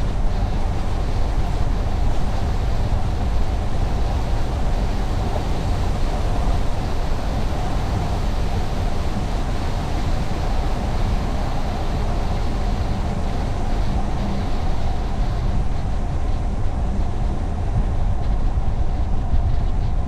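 Car driving at steady speed: continuous road and tyre noise with a low rumble and engine hum.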